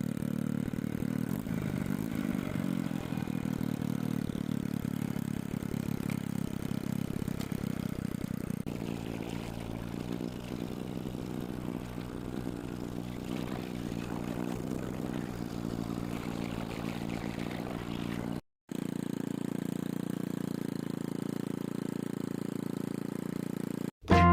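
Small motorcycle engine running steadily at a fast idle. About 18 seconds in it cuts off abruptly and the same steady running picks up again.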